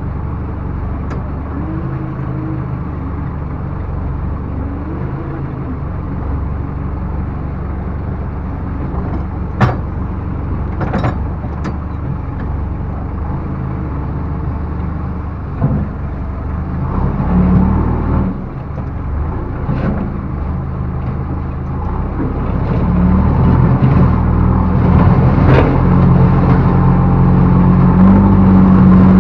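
Diesel engine of a backhoe loader running steadily under work, with a few sharp metallic knocks. The engine revs up and gets louder over the last several seconds.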